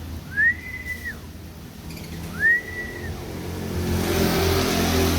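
Two loud whistles about two seconds apart, each rising, holding one note and dropping away within a second. Near the end a vehicle engine grows louder as it accelerates past.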